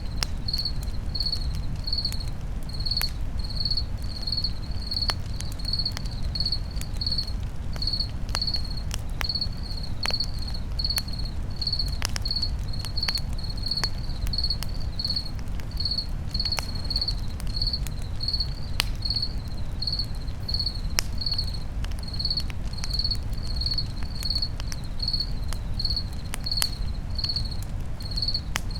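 A cricket chirping steadily, about three chirps every two seconds, over a crackling campfire that gives scattered sharp pops and a low steady rumble.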